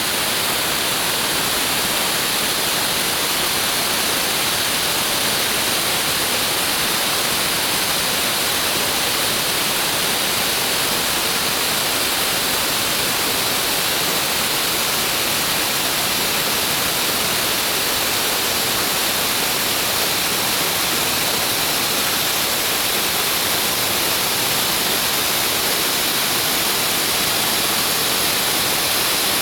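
A waterfall about 20 metres high, falling water pouring down in a steady, loud rush that stays even throughout, with a strong hiss in it.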